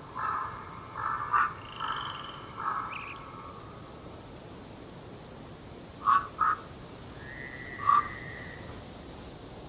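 Harsh bird calls in a forest: a quick run of rasping calls in the first three seconds, two short calls about six seconds in, then a higher drawn-out whistle with one more call near the end, over a faint steady hiss.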